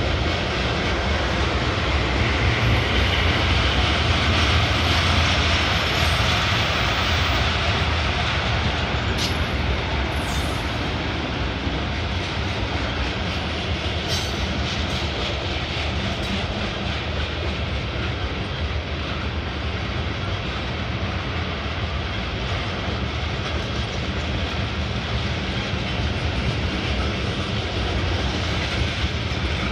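Freight train cars rolling past at trackside, a steady rumble of wheels on rail that is a little louder in the first several seconds and then eases slightly.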